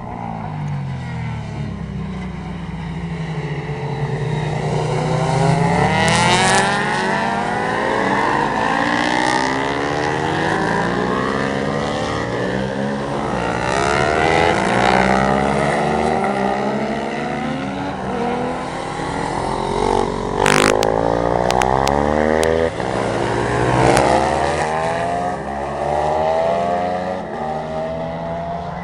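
Several racing motorcycles revving hard and passing one after another, their engine notes overlapping and rising and falling as they go by and change gear.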